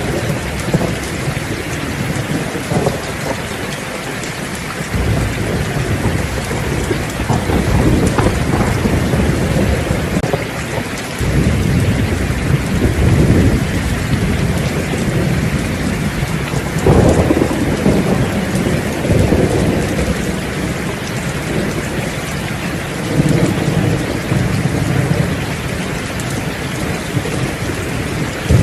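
Steady heavy rain, with thunder rolling in low, drawn-out rumbles several times: about 5 s in, again around 12 s, around 17 s, and near 24 s.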